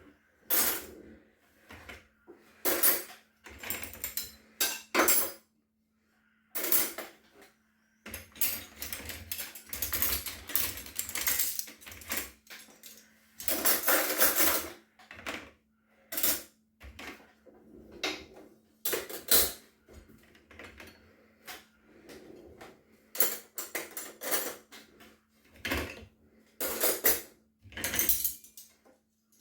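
Dishes and cutlery clinking and clattering as they are lifted out of a dishwasher rack, in irregular bursts with a few short pauses.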